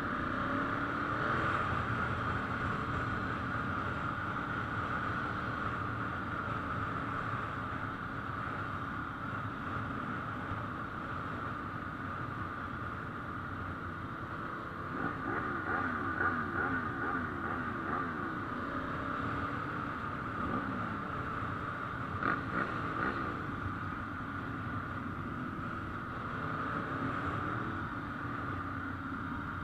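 Ducati motorcycle engines running steadily, with bursts of revving from several bikes about halfway through and again near the end, over a steady hiss.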